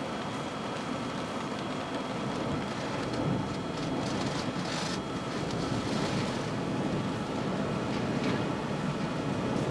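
Steady rush of heavy rain mixed with a vehicle's running and road noise.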